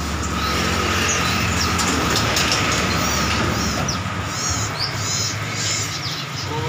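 Small caged songbirds chirping in short repeated calls, thickest in the middle of the stretch, over a steady low engine hum.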